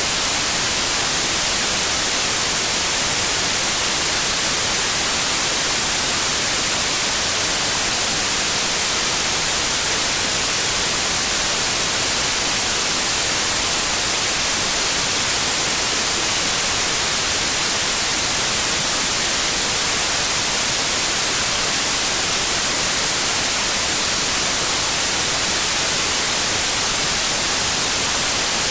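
Steady white noise: an even, bright hiss with no pitch, rhythm or change in level.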